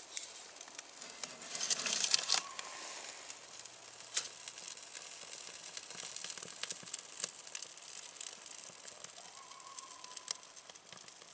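Birch bark and dry kindling being handled and crinkled while a fire is laid in a small wood stove, with scattered sharp snaps and clicks and a louder rustling spell about two seconds in.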